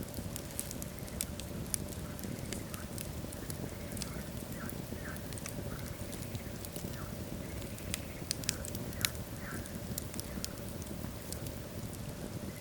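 Wood logs burning in a fireplace: a steady low rush of flame with frequent sharp crackles and pops, the loudest pops about 8 and 9 seconds in.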